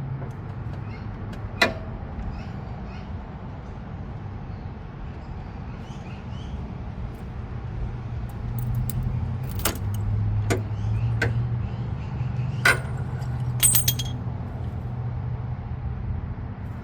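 Hand tools working on the radiator coolant fan temperature sensor: scattered sharp metal clicks and knocks of a socket and wrench, with a brief ringing jingle of metal about three-quarters of the way in, over a steady low hum.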